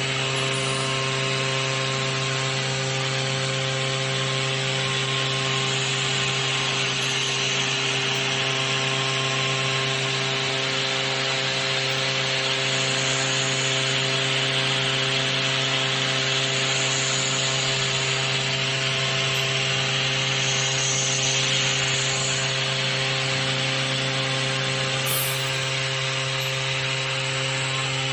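Tomahawk Pro CNC machine milling a plate: the spindle runs at a steady pitch under a continuous cutting hiss, unchanging throughout.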